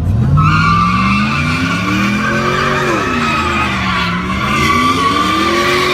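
A car spinning its tires with a high, steady squeal that starts about half a second in, while the engine revs up and down under it: a burnout or donut.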